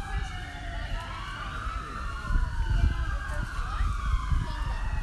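Vehicle siren wailing, its pitch sliding up and down about every two seconds over a low rumble.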